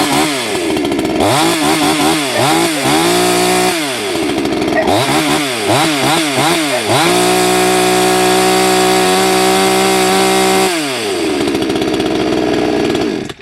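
Salem Master 6220F 62cc two-stroke chainsaw running loud with no load on a first run: the throttle is blipped several times, the engine revving up and falling back each time. It is then held at full revs for about four seconds, drops back to idle, and is switched off right at the end.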